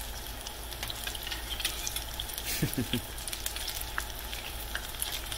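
Apple fritters deep-frying in hot oil: a steady sizzle full of small crackling pops.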